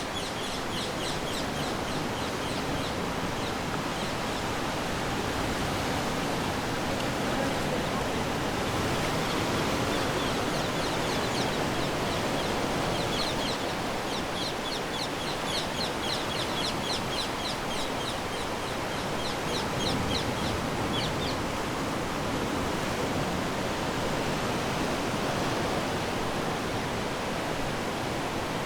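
Ocean waves washing onto the shore, a steady surf wash that swells gently now and then. Over it a small bird gives rapid high twittering runs, once at the start and again for several seconds in the middle.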